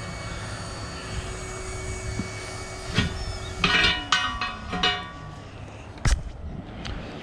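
Steel tire irons clanking against a steel truck wheel rim as the tire bead is levered into place: a knock about three seconds in, a few ringing metallic clanks around four to five seconds, and a sharp knock near six seconds.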